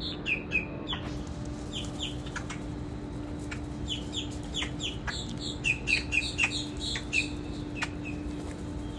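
A flock of birds chirping: short, downward-sliding chirps in quick clusters, busiest from about five to seven seconds in, over a steady low hum.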